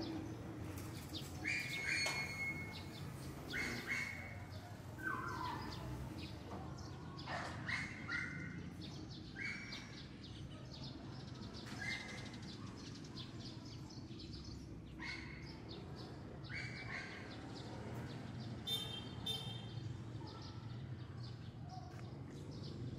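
A bird chirping: short, sharp calls every second or two, some dropping in pitch, over a steady low background hum.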